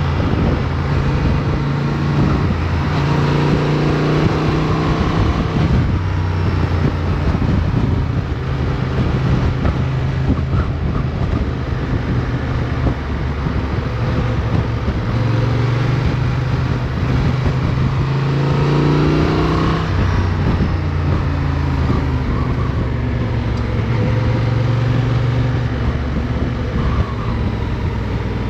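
Motorcycle engine running under way, heard from onboard. Its pitch rises and falls several times with throttle and gear changes, over a constant rush of wind noise.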